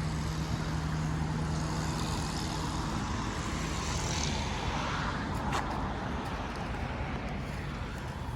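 Steady vehicle and traffic noise. A low engine hum fades out about three seconds in, and there is a brief click later on.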